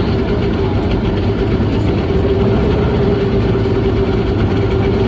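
Glass-bottom tour boat's engine running steadily, an unchanging drone with a constant hum.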